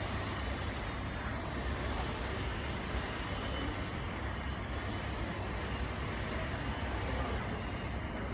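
Steady low rumble and hiss of airport apron noise, from aircraft and ground vehicles running, with no single event standing out.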